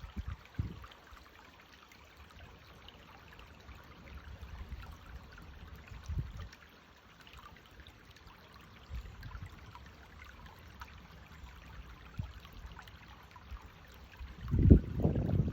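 Small stream trickling steadily, with a few low rumbling bumps, the loudest near the end.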